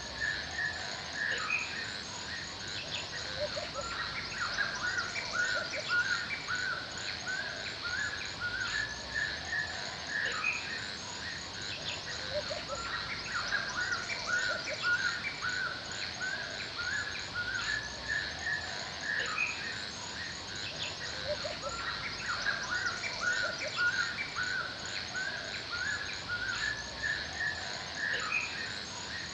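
Forest ambience: birds chirping in short repeated phrases that come and go, over a steady high insect buzz with an even ticking.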